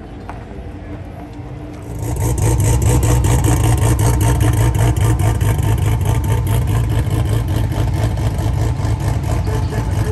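A drag car's race engine running loudly at low speed, with a fast, rough pulse, as the car rolls along the lane. It comes in suddenly about two seconds in, over a quieter engine rumble.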